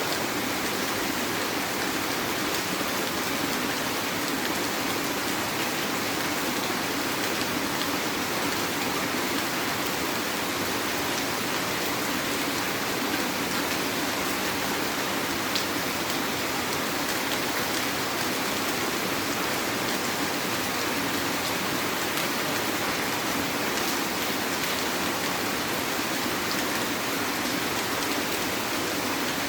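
Heavy rain falling steadily, a dense even hiss of drops on surfaces with a few sharper drop ticks.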